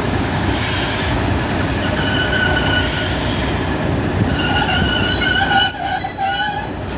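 A train moving slowly through the station, its wheels squealing against the rails in several steady high tones that stop suddenly near the end, with two short bursts of hiss early on.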